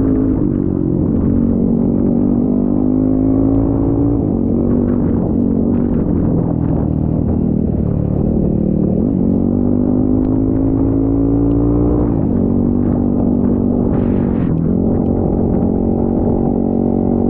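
Trail motorcycle engine running while riding, its pitch climbing slowly and dropping back several times as the revs rise and fall.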